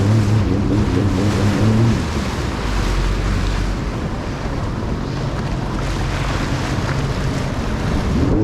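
Jet ski engine running over the water, with heavy wind noise on the microphone and rushing water. The engine's steady tone sinks under the wind and water noise after about two seconds and comes back near the end.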